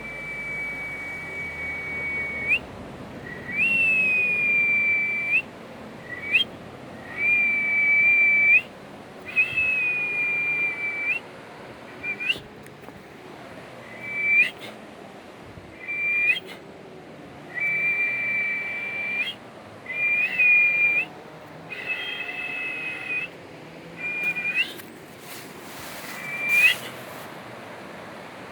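Whistling: about a dozen notes at one steady, fairly high pitch, each held for up to two seconds and ending in a quick upward flick, over a steady hiss.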